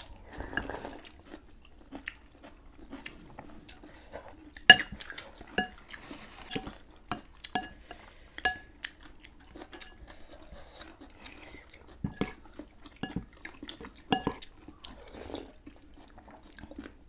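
Eating utensils clinking against bowls many times while noodle soup is eaten, with chewing in between. The sharpest, loudest clink comes about five seconds in, and another near fourteen seconds.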